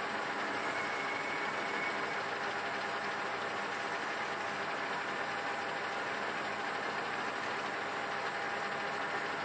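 Metal lathe running steadily while boring out a hub's bearing housing to a press-fit diameter, a constant mechanical hum and hiss with faint steady tones.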